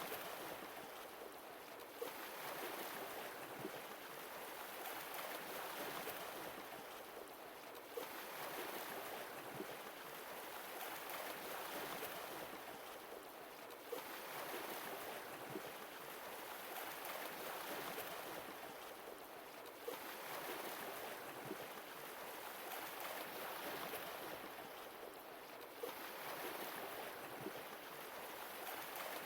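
Sea waves washing in, swelling and ebbing in a regular cycle with a new wave breaking about every six seconds.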